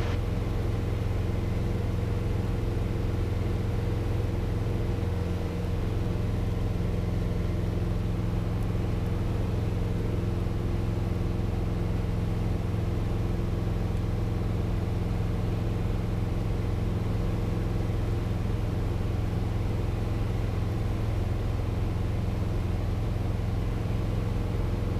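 Piper PA-28 Cherokee 180's four-cylinder Lycoming engine and propeller running at steady climb power, a constant, even drone.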